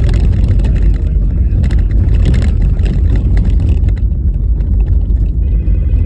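A car driving over a bumpy, snow-covered road: a steady low rumble of road and tyre noise with scattered knocks and rattles from the rough surface.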